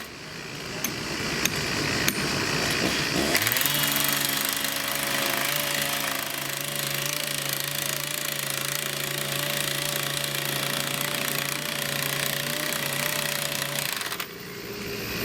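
Excavator's diesel engine and hydraulics working: a few sharp metallic knocks in the first two seconds, then a steady engine drone with a slightly wavering whine from about three seconds in, which cuts off abruptly near the end.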